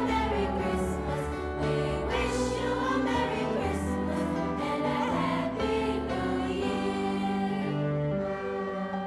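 A choir singing over instrumental accompaniment. In the last second or so the higher voices thin out and low, sustained tones carry on.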